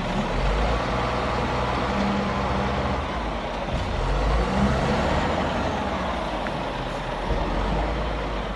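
Heavy diesel machinery running steadily and low-pitched.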